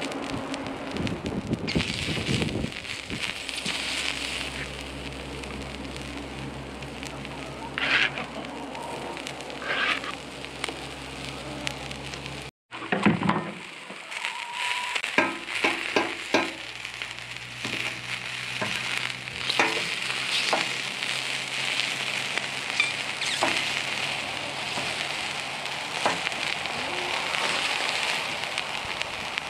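Sausages, onions, peppers and mushrooms sizzling on a hot steel flat-top griddle, with scattered clicks and scrapes of a fork and metal spatula on the plate. The sound cuts out for a moment about halfway through.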